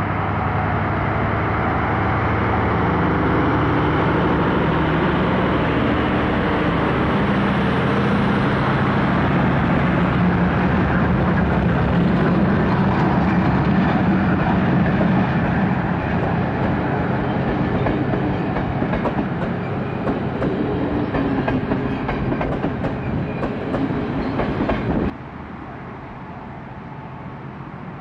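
Diesel train passing close by: a steady engine note with wheels clicking over the rail joints in the second half. The sound cuts off suddenly near the end.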